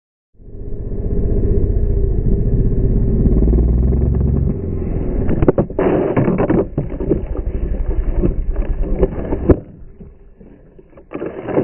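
Kawasaki KX450 dirt bike's four-stroke single-cylinder engine, first running steadily, then choppy and uneven with many sharp knocks. A single sharp bang comes about nine and a half seconds in, and the engine sound drops away after it.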